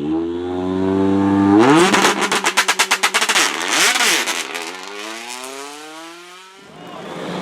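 Rally car engine running, then revving hard as it accelerates, with a rapid string of exhaust bangs, before the pitch falls away as the car moves off; the sound cuts off abruptly near the end.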